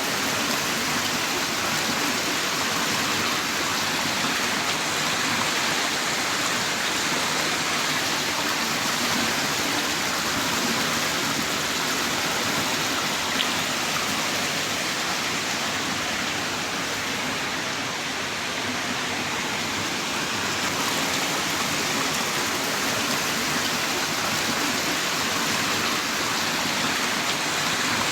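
Heavy rain falling steadily in a downpour, a dense, even hiss with a slight lull about two-thirds of the way through.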